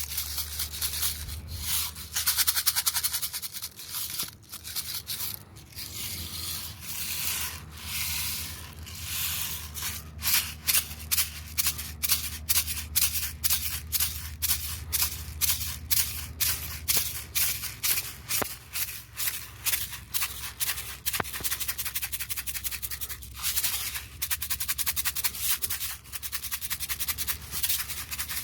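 A hand rattle or shaker shaken in a steady rhythm of about three to four strokes a second, with a dry rasping hiss, over a steady low hum. The shaking is looser and more uneven in the first third.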